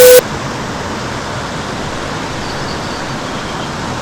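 Steady rush of flowing river water, fairly loud and even. A brief, very loud electronic tone cuts off just after the start.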